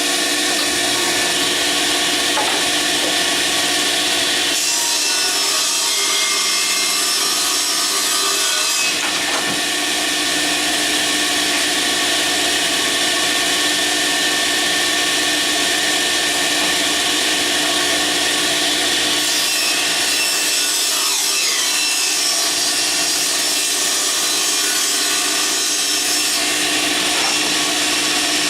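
Table saw running steadily, its blade ripping wood, with two long stretches where the cutting noise grows brighter as stock is fed through the blade.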